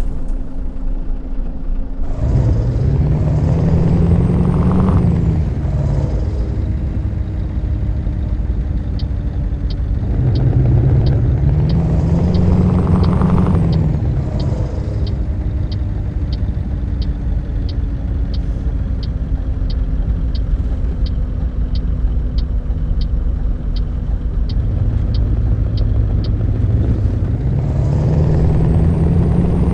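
Scania R-series V8 diesel truck engine running, its note rising and falling three times as the engine is revved or pulls under load. A regular ticking, about one and a half times a second, runs through the middle stretch.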